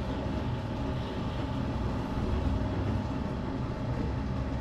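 A steady low motor hum with a faint steady whine above it.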